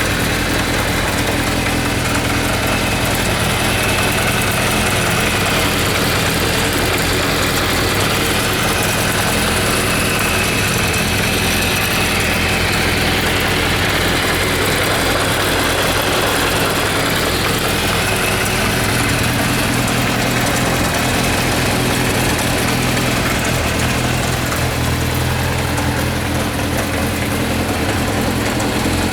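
Kawasaki Zephyr 750 (ZR750-C2) air-cooled inline-four engine idling steadily.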